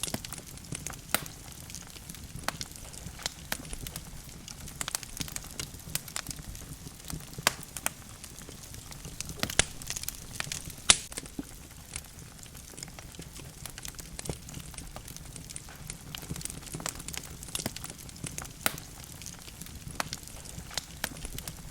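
Wood logs burning in a fireplace: irregular sharp crackles and pops over a low steady hiss of the flames, with one louder pop about eleven seconds in.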